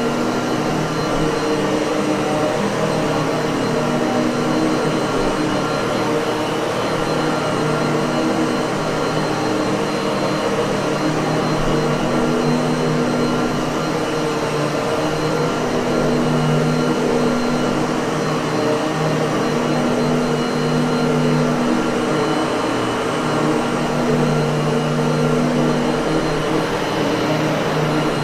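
Miele vacuum cleaner motor running steadily, a continuous whooshing hum with a low tone that swells and eases slightly every few seconds.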